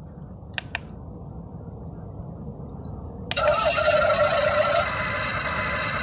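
RC model excavator's electronic engine sound: a low steady rumble with two short clicks, then about three seconds in a louder, higher engine sound cuts in and settles to a steady run, as the engine is warmed up.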